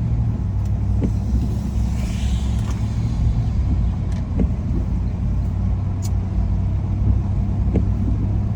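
Car cabin road noise while driving: a steady low rumble from the engine and tyres, with a few faint clicks scattered through it.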